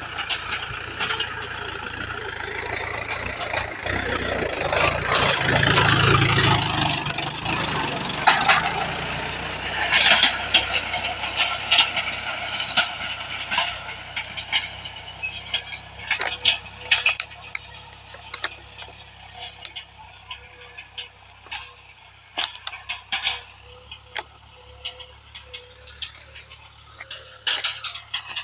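Mahindra 415 DI XP Plus tractor's diesel engine running with a rattle. It is loudest about five to eight seconds in, then fades to a lower level, with scattered clicks and knocks.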